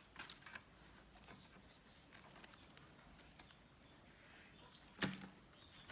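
Near silence, with faint scattered small clicks and a slightly louder tap about five seconds in.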